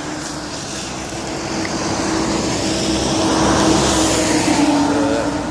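A car passing on the road, its tyre and engine noise swelling to a peak about three and a half seconds in and then easing off.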